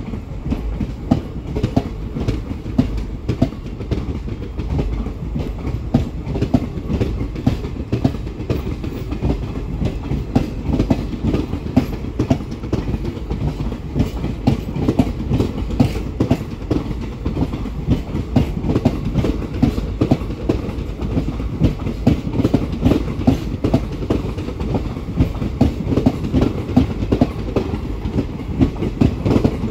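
Coaches of a long parcel train running past, their wheels clattering over the rail joints in a rapid, unbroken clickety-clack over a low rumble.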